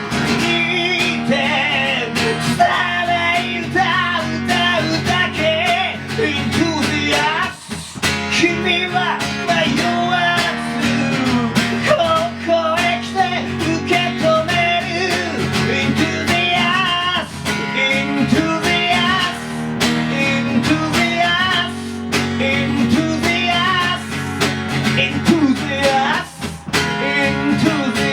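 A band playing an instrumental passage led by guitar, with no singing, and a short break about seven seconds in and again near the end.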